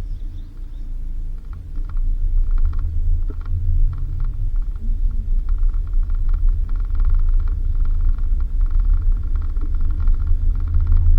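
Suzuki Jimny driving on a dirt road: a steady low rumble of engine and tyres with many small rattles and clicks.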